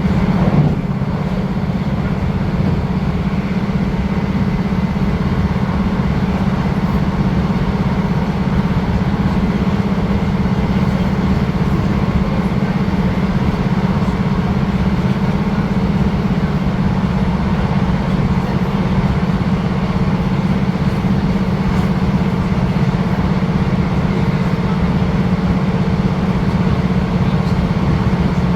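Steady low rumble of a Northern passenger train running along the rails, with faint steady hums from the running gear and one brief knock about a second in.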